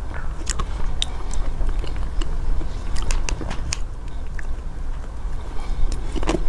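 Close-miked eating sounds: chewing a soft dessert, with irregular wet mouth clicks over a steady low rumble.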